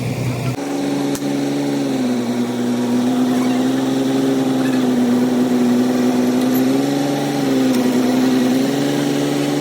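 A machine's motor running with a steady hum that starts abruptly about half a second in and dips slightly in pitch a few times.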